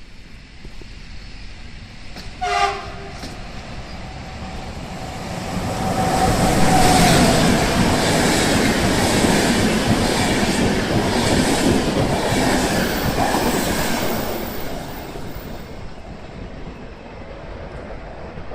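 Electric train sounding a short two-tone horn blast, then passing at speed: the rush of wheels and carriages swells, holds for several seconds and fades away.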